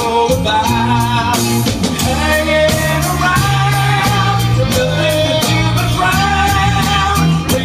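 Pop-rock band music in an instrumental passage: a held, sustained melody line over bass and a steady drum beat.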